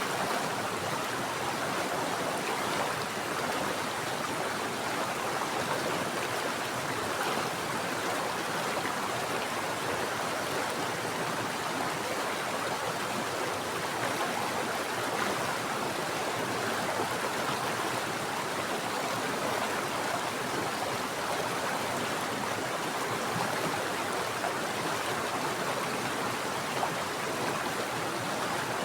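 Mountain stream of water flowing over rocks: a steady, even rushing and splashing with no breaks.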